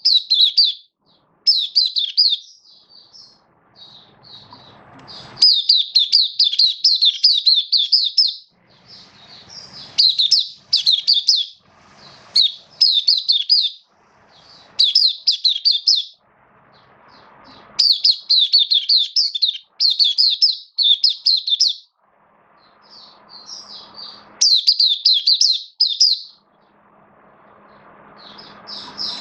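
White-eye (mata puteh) singing: one rapid, high twittering phrase after another, each lasting one to three seconds, with short pauses between.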